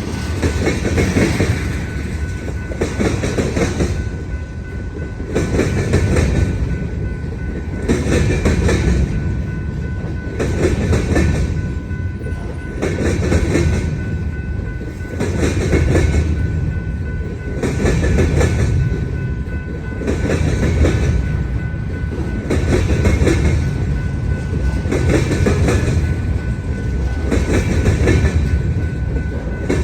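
Freight cars of a long manifest train rolling over a railroad diamond crossing: the wheelsets clatter across the crossing frogs in clusters of impacts about every two and a half seconds, over a steady rolling rumble with a faint steady high whine.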